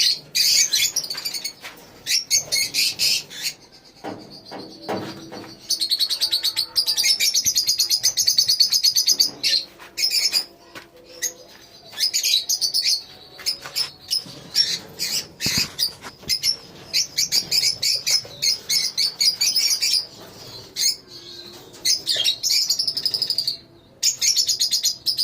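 A colony of lovebirds chattering: runs of rapid, high-pitched chirping lasting a few seconds each, with short breaks between.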